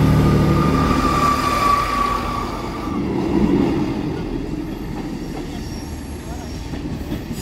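Transport for Wales diesel multiple unit passing over a level crossing: its engine rumble and wheel noise, with a steady high wheel squeal for the first three seconds, then fading gradually as the train draws away.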